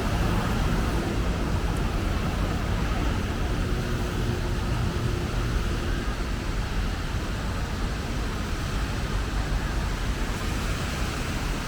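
Steady city road traffic: a continuous wash of passing cars and other vehicles, with a heavier engine hum in the first few seconds.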